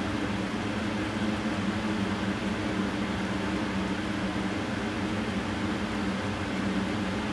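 Steady mechanical hum with a low, even drone that does not change.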